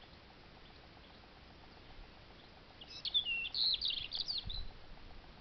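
European robin singing one high, quick warbling phrase of many short notes, starting about three seconds in and lasting about two seconds.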